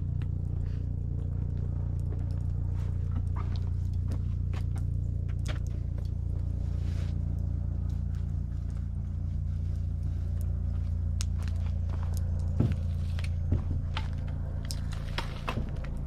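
Wood campfire crackling, with irregular small snaps and pops and two sharper pops a little past the middle, over a steady low rumble.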